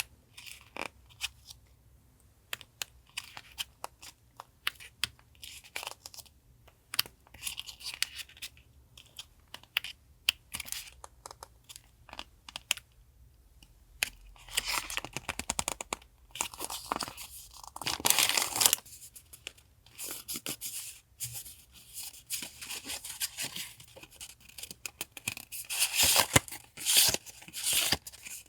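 Paper journaling supplies and their packaging handled close up: crinkling, rustling and tearing, with many small taps and clicks. Longer, louder bouts of rustling come about halfway through and again near the end.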